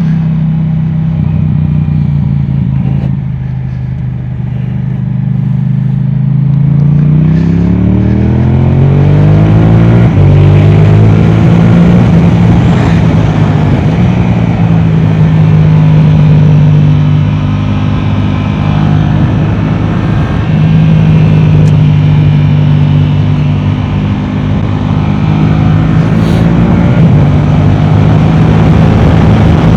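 Yamaha R7's 689 cc parallel-twin engine through an Akrapovic exhaust: the note sags for a few seconds, climbs steeply about seven seconds in as the bike accelerates, then holds at high revs with small rises and dips.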